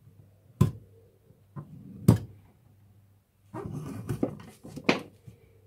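Hand shears cutting thin lead strips: a few sharp clicks and clacks as the blades close, with a short rustle of the lead being handled in the middle.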